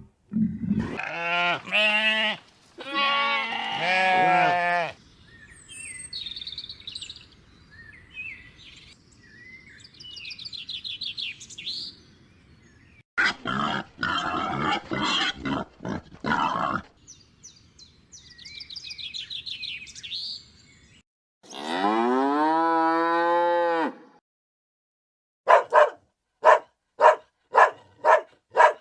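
A series of farm animal calls, led by cattle mooing, including one long moo that rises and then falls in pitch. Fainter high chirps run in between, and there is a run of six short calls near the end.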